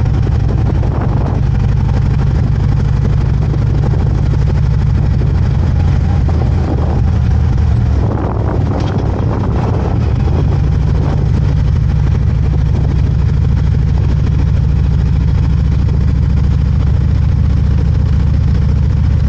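Harley-Davidson V-twin motorcycle engine running steadily at low speed, a low, even engine note.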